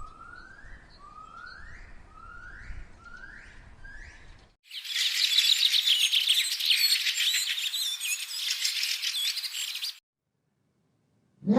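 Five quiet calls, each rising in pitch, about one a second, then a loud, dense chorus of many small birds chirping at once that cuts off abruptly.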